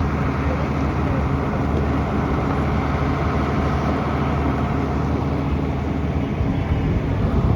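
Tractor engine running steadily during a ride, with a brief louder rumble near the end.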